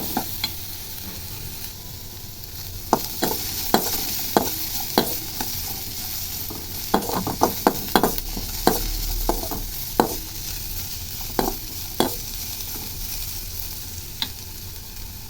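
Chopped carrots and beans sizzling as they sauté in ghee in a kadai, with a steady hiss of frying. Stirring against the pan adds irregular clicks and scrapes, coming in short runs.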